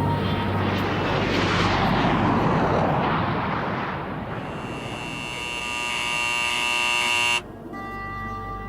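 F-117 Nighthawk jet passing with a broad whoosh that swells and fades over the first few seconds. Then a steady high-pitched turbine whine, which cuts off suddenly near the end.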